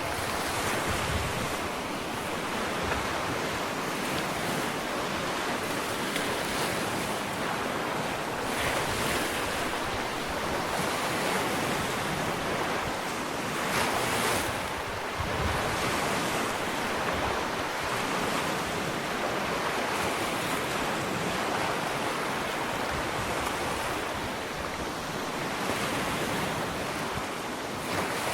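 Ocean surf washing onto a sandy beach: a steady rushing wash of breaking waves that swells and eases every few seconds.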